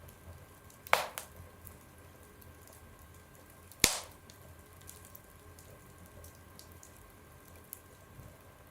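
Burning firewood crackling, with a sharp pop about a second in, a smaller one just after it, and a louder pop about four seconds in, over faint small ticks and a low hiss.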